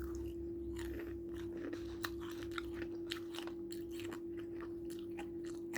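A person chewing food close to the microphone, with many small mouth clicks and smacks, over a steady low hum.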